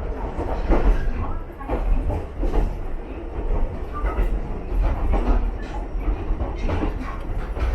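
Running noise inside an Ichibata Electric Railway 7000-series railcar under way: a steady low rumble, with irregular knocks and clacks from the wheels on the track.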